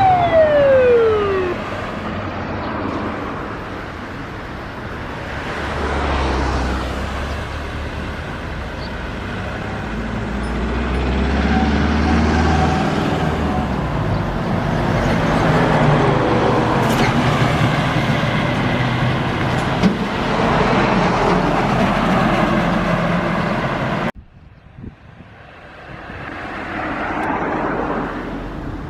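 Fire engine siren cutting off and sliding down in pitch as it winds down, the emergency run called off. Engine and road noise of passing traffic follows, swelling and fading, and drops away abruptly about 24 seconds in before another vehicle approaches near the end.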